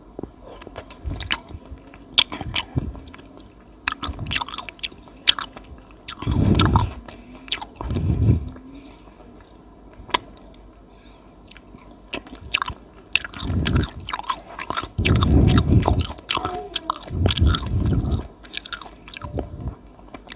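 Close-miked chewing of soft food: wet mouth clicks and smacks throughout, with several heavier, louder bouts of chewing about a third of the way in and again in the second half.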